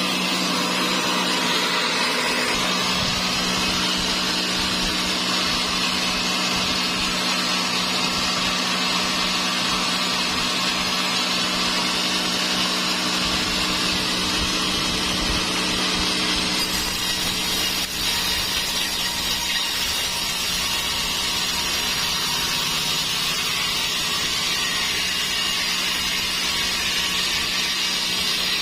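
Sawmill saw cutting through a dry teak log, a steady machine hum under the continuous rasp of the blade in the wood, with a brief dip about two-thirds of the way through.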